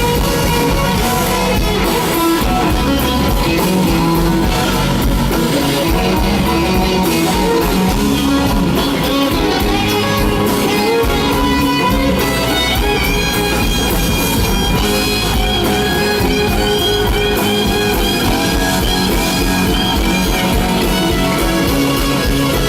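Live blues band playing an instrumental passage of a slow blues: a lead electric guitar playing sustained and bending notes over drums and bass.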